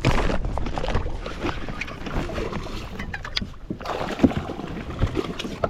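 Water splashing and slapping around a kayak in short sharp strokes, with wind buffeting the microphone.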